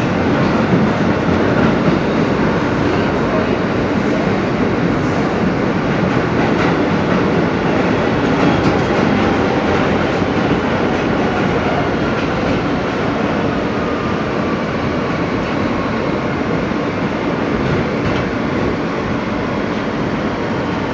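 Ride noise inside an R160B New York City subway car running on the rails: a steady loud rumble with wheel-on-rail clatter and a faint whine.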